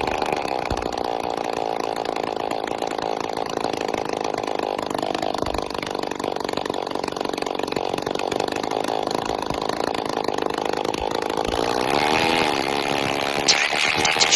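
Phantom 85 two-stroke motorized-bicycle engine running with no exhaust pipe fitted, a steady raspy note under way. About 12 seconds in, the revs dip and pick up again, and brief sharper, higher noises come in near the end.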